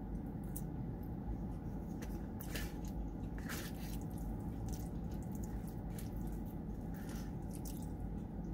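Close, wet chewing of cheesy chili-covered fries, with soft squishing mouth clicks now and then over a steady low hum.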